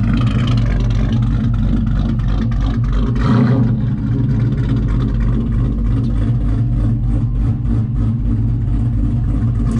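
Pickup truck engine and exhaust running loudly with a deep steady rumble, swelling briefly about three seconds in.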